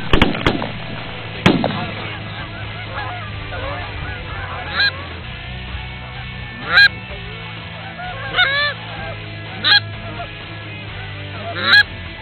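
Canada geese honking, single honks a second or two apart. There are a few sharp knocks in the first second and a half.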